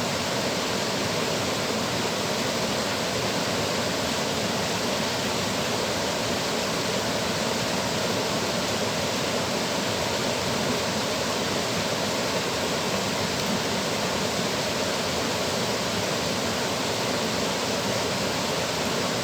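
Steady rush of water flowing through a dam, an even hiss and roar with no let-up.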